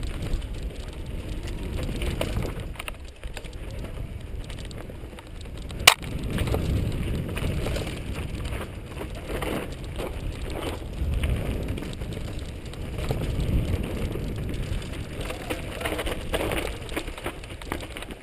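Mountain bike riding over a dirt and rock trail: a low uneven rumble of tyres and wind on the microphone, with scattered clicks and rattles from the bike. One sharp, loud clack about six seconds in.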